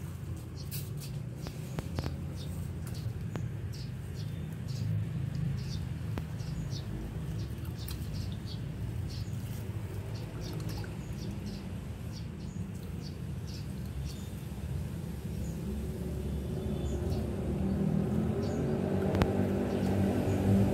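Small birds chirping in short, repeated calls over a steady low rumble, with a vehicle engine growing louder near the end.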